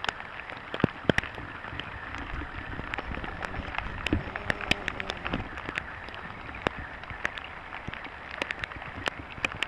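Raindrops hitting the kayak and the water: many sharp, irregular ticks over a steady hiss.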